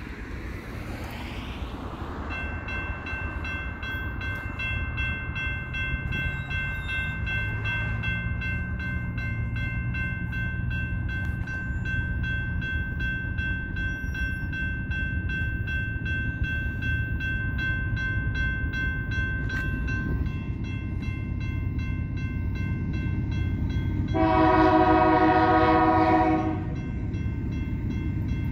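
Railroad grade-crossing warning bell rings with rapid, evenly spaced strikes until about two-thirds of the way through. Under it, the rumble of an approaching diesel freight train builds. Near the end the BNSF lead locomotive sounds a loud multi-note air horn chord for about two seconds.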